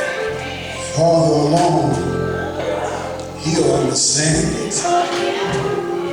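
Gospel singing with a male voice leading over instrumental accompaniment.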